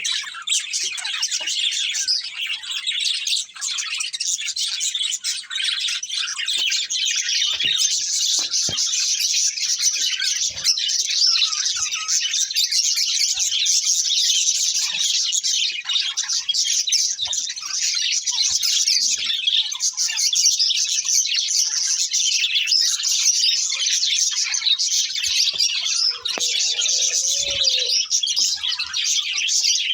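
Budgerigars chirping and warbling in a continuous, busy chatter of quick high notes.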